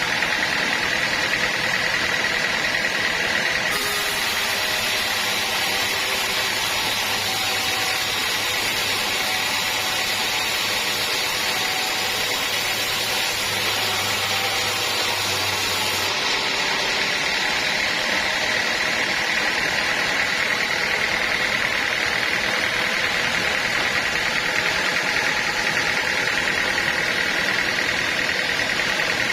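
A sawmill running steadily, an even mechanical noise with a constant high whine. The sound changes character abruptly about four seconds in and again about sixteen seconds in.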